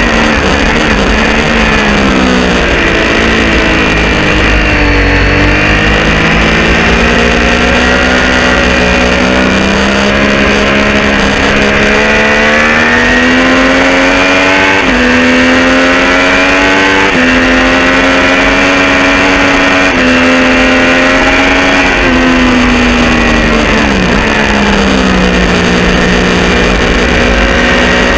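Triumph Street Triple R 675 inline-three engine on track through an unbaffled Arrow exhaust. The revs fall under braking and downshifts, then climb, with sudden drops in pitch at quickshifted upshifts about 15 and 17 seconds in, fall again, and climb near the end. A low wind rumble sits underneath.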